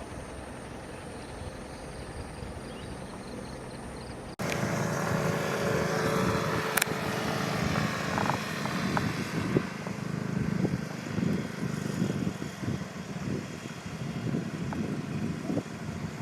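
Engine noise, like a vehicle running: a faint steady high whine at first, then after a sudden cut about four seconds in, a louder low rumble with scattered knocks and clicks.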